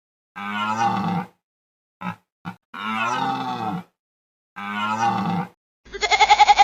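An animal calling three times, each call about a second long and rising then falling in pitch, with two short grunts between them. Near the end a different, quavering bleat begins.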